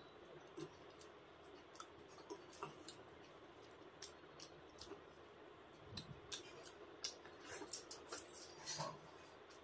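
Faint, close-miked eating sounds: wet mouth clicks and smacks of chewing bread dipped in curry gravy, getting louder and more frequent a few seconds from the end.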